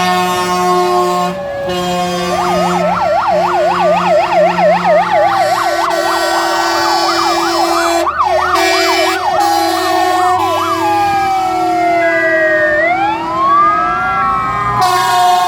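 Several fire engine sirens sounding at once as a column of fire trucks drives past: a fast warbling yelp for several seconds, overlapping slower rising and falling wails, with the trucks' engines underneath.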